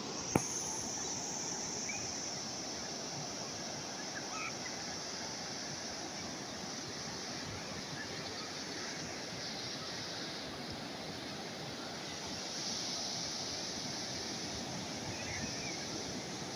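Calm sea waves washing gently ashore, a steady surf hiss that swells slightly about thirteen seconds in. A single sharp click comes just after the start.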